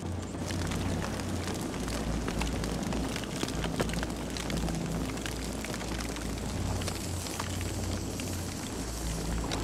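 Campfire crackling: many small sharp pops and snaps from the burning wood over a steady low rumble of the flames.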